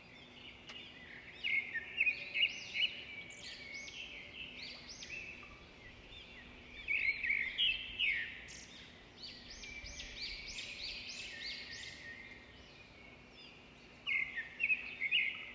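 Faint birds chirping and singing in quick, high, rising-and-falling phrases, with a couple of short pauses.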